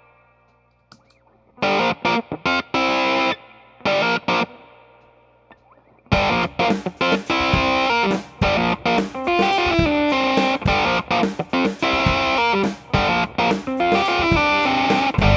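Electric guitar played through an Earthquaker Devices Sound Shank germanium fuzz pedal: a few short, choppy chords with gaps, then about six seconds in a continuous fuzzed riff.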